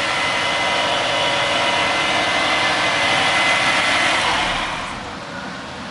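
Subaru Forester XT's turbocharged flat-four running in the open engine bay, a steady whirr with a high whine over it, with the A/C belt on its newly replaced idler pulley. The whine and whirr ease off near the end.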